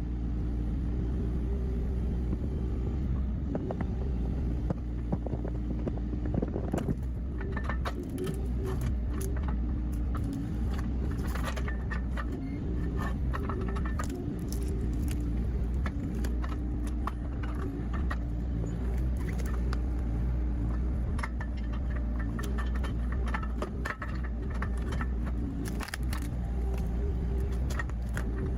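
Excavator engine running steadily under load, with frequent short clicks, knocks and cracks as its steel digging hook tears through soil and roots around a tree stump.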